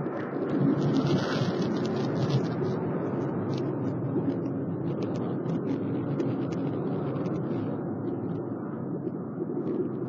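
Steady jet noise from the Red Arrows' BAE Hawk T1 jets (Adour turbofans) flying their display, with a few faint ticks and crackles.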